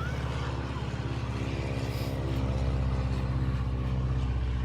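Propeller plane's piston engine droning overhead, growing louder over the first few seconds as it comes toward the listener.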